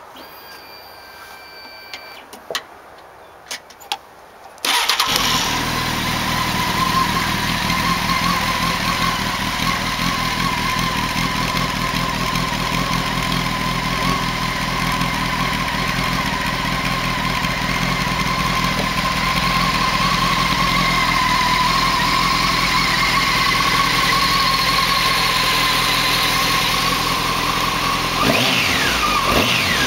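2007 Honda 919 motorcycle's inline-four engine on its stock exhaust cans. After a few clicks it starts about five seconds in and settles into a steady idle, with a brief change in pitch near the end.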